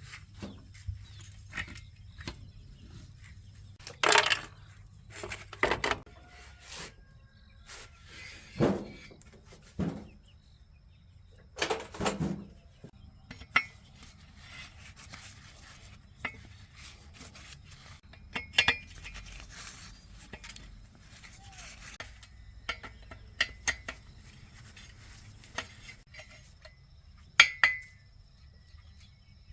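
Metal tools and parts clinking and knocking at irregular intervals as they are handled and set down, with a few louder knocks scattered through.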